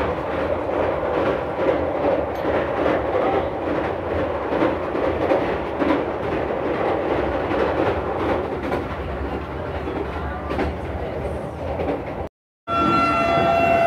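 Vande Bharat Express electric train running at speed: a steady rolling noise of the ride, full of small clicks and clatter from the wheels on the track. After a brief cut near the end, a steady horn-like tone begins.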